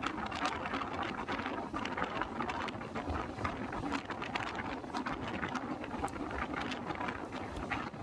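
Passenger train running at speed: a steady rumble and rattle with frequent small irregular clicks.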